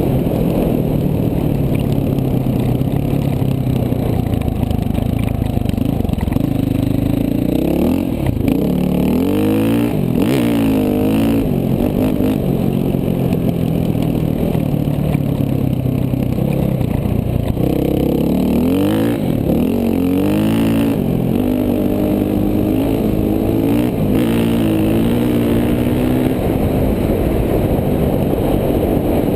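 KTM 450 dual-sport's single-cylinder four-stroke engine running under way, steady at first, then revving up and down over and over from about eight seconds in as the throttle is worked.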